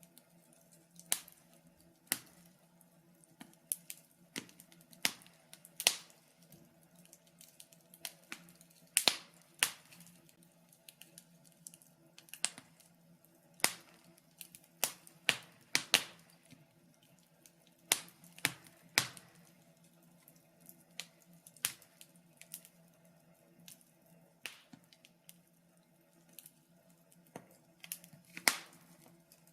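Wood fire in a fireplace crackling: irregular sharp pops and snaps, about one or two a second, some coming in quick clusters.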